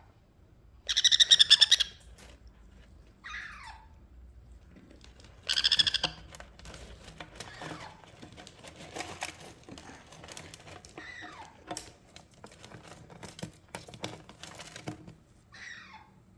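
Young parrots calling: two loud, harsh screeches about a second and five and a half seconds in, with softer short calls and a run of small clicks and scuffles in between.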